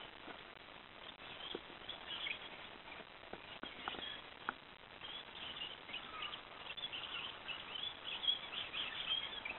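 Faint outdoor field recording of small birds chirping, with short high calls scattered through it and a few soft clicks around the middle.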